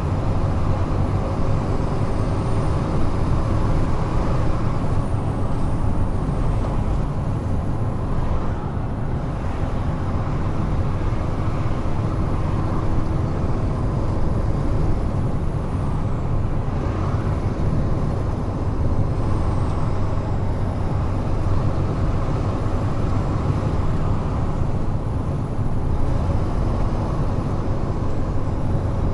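Large truck driving at steady speed on an expressway: an even low engine drone mixed with tyre and road noise.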